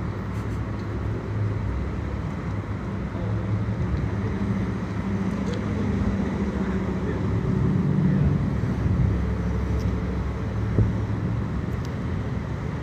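Steady street traffic noise with a low engine rumble from vehicles.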